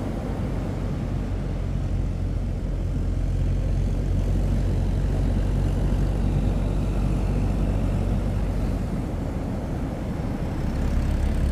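An engine running steadily at low revs, a constant low hum over a rushing noise.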